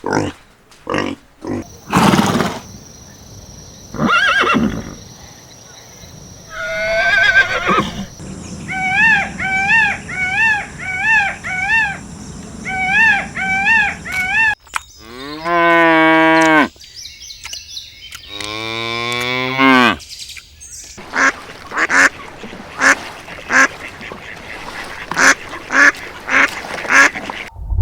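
Farm animals calling, several different kinds one after another. A run of short, evenly repeated calls comes in the middle, then two long drawn-out calls, then a quick series of short calls near the end.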